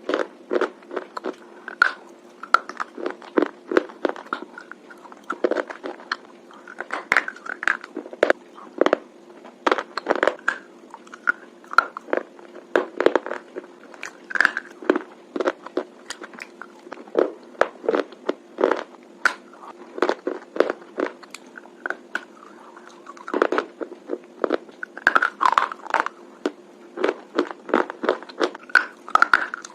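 Close-up crunching as someone bites and chews a hard, crunchy bar: rapid sharp crunches, several a second, with a faint steady hum underneath.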